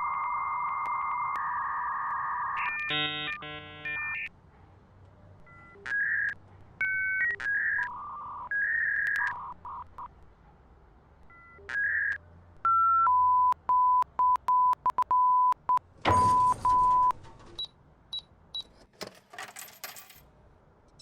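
Electronic beeps and tones from a vending machine's keypad and display: a held tone at the start, a chord of several tones, then short beeps at changing pitches and a run of about eight identical short beeps. A short burst of noise comes partway through that run, and there are scattered clicks near the end.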